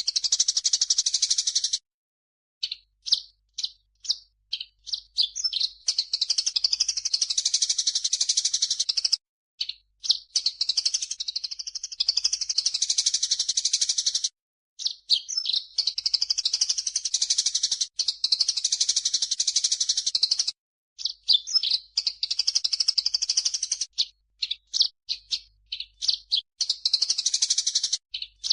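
Recorded bird-tutor track of grey-cheeked bulbul (cucak jenggot) and Eurasian tree sparrow (burung gereja) calls mixed together: long runs of rapid, high chattering, broken by brief pauses and stretches of separate quick chirps.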